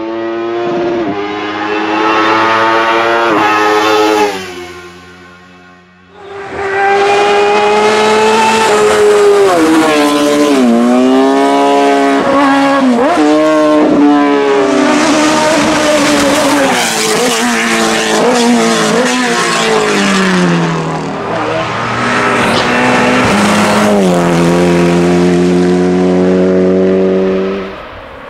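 Hillclimb race car engines at full throttle, the pitch climbing and stepping down with each upshift. A quieter moment comes about 4 to 6 seconds in. Then another car runs hard for the rest of the time, its pitch dropping steeply on downshifts twice and then climbing through the gears again near the end.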